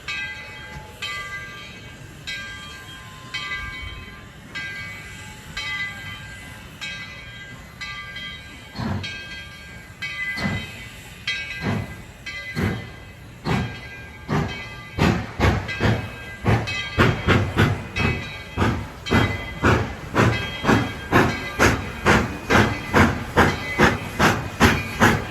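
Tweetsie Railroad's narrow-gauge steam locomotive No. 12 working, its exhaust chuffs quickening from about one a second to about two a second and growing louder as it gathers speed, over a steady steam hiss.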